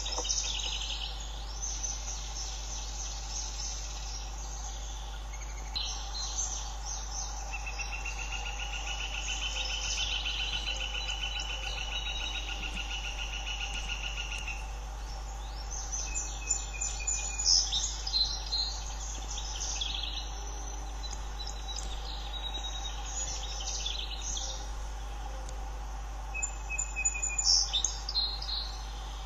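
Outdoor summer chorus of small birds chirping and calling on and off, with a steady pulsed buzz lasting about seven seconds in the middle, over a constant low hum.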